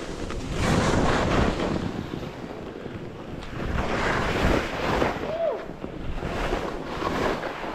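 Wind buffeting the microphone while sliding down a snow slope, with the hiss of sliding on snow; the rushing noise swells about a second in and again around four seconds in.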